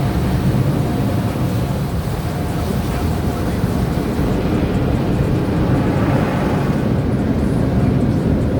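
Automatic car wash machinery running, heard from inside the car: a loud, steady rumble and wash noise. The higher hiss thins out about halfway through.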